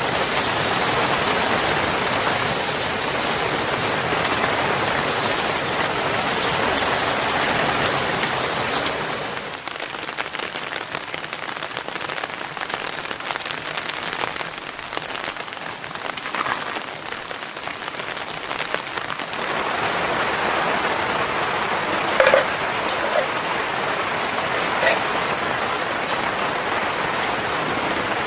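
Steady rainfall, a continuous hiss that turns quieter about ten seconds in and picks up again about twenty seconds in. Two short sharp clicks come near the end.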